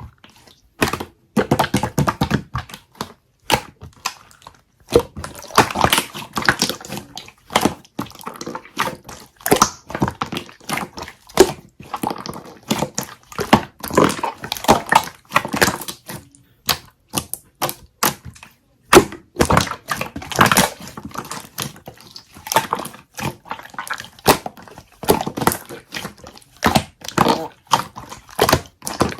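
Honey jelly slime being squeezed and pressed by hand, giving quick, irregular runs of wet clicks and popping crackles with short pauses between handfuls.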